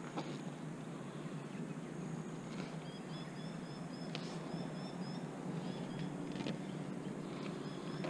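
Lakeside outdoor ambience: a steady background rush with a small bird singing runs of short, evenly repeated high chirps, about three seconds in and again near the end. A couple of faint clicks come in between.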